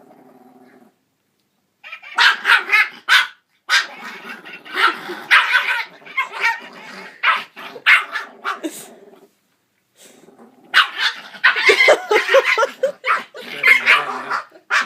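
Puppy barking agitatedly at a singing toy dog, in two long runs of rapid barks with a pause of about a second between them.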